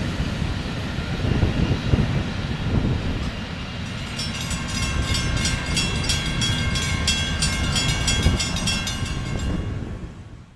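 Low rumble of a freight train moving away from a grade crossing. About four seconds in, the crossing bells start ringing rapidly as the gates rise, and the sound fades out near the end.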